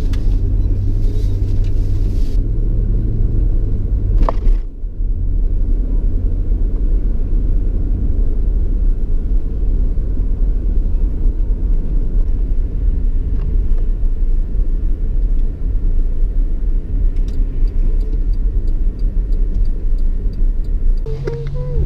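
Truck driving on the road, heard from inside the cab: steady low rumble of engine and tyres, with a sharp click about four seconds in.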